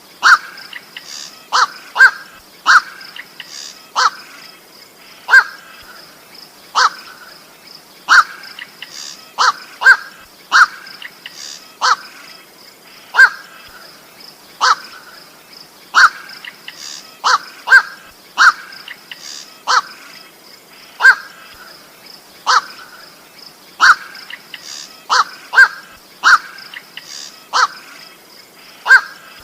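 Koak (goak) bird calls: short, harsh single 'koak' notes repeated about once a second, sometimes in quick pairs, as played back to lure birds. A steady high whine runs behind them.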